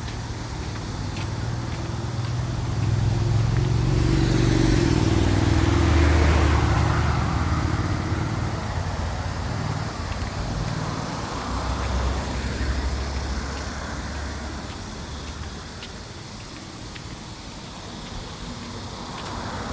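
A car passing close by, its engine and tyre noise swelling over several seconds and then fading. A second, quieter vehicle passes about twelve seconds in, over a steady background of street traffic.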